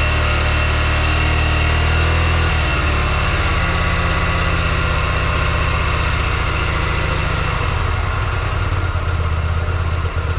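Hyosung GV125 Aquila's small four-stroke V-twin engine running steadily at idle, its note shifting slightly about two and a half seconds in.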